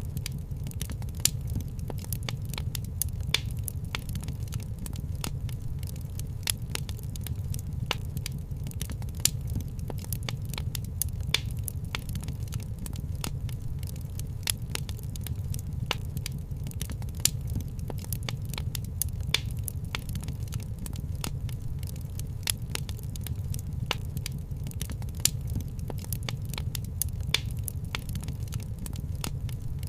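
Wood fire crackling in a fireplace: irregular sharp pops and snaps, a few louder ones every second or two, over a steady low rumble.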